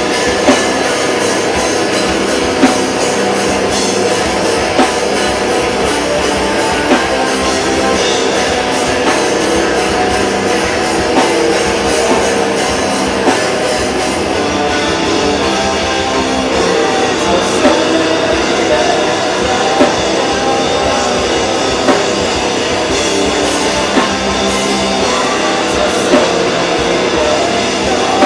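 Metalcore band playing live at full volume: distorted electric guitars, bass and drum kit, with heavy accented hits landing about every two seconds.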